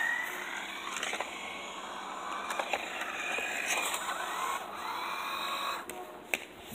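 Toy RC car running, its small electric motor whining as it speeds up and slows down, the pitch rising and falling several times over a steady rushing noise.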